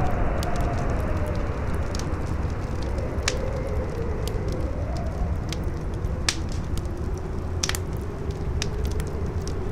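Wind howling with a slowly rising and falling pitch over a crackling fire, which gives sharp, irregular pops.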